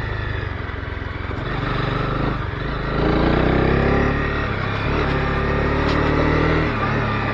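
Honda CB250R's single-cylinder engine running under way. The revs dip about two and a half seconds in, then climb again as the bike accelerates, and it is loudest around three to four seconds in.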